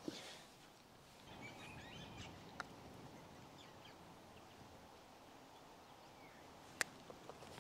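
Quiet outdoor ambience with faint bird chirps about one and a half to two seconds in, and a single sharp click near the end.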